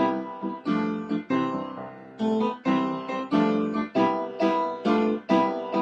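Piano accompaniment playing an instrumental interlude with no singing, notes struck in a steady rhythm, about two to three a second, each fading before the next.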